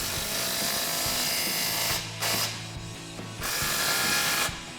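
A power tool with a 15 mm socket tightening exhaust clamp nuts. It runs in three spurts: about two seconds, a brief burst, then about another second.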